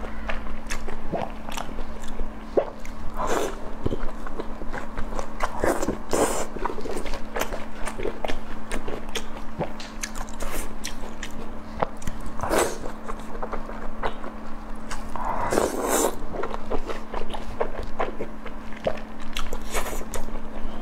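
Close-miked eating: chewing, biting and wet mouth clicks and smacks, with a few louder bites along the way. A steady low hum runs underneath.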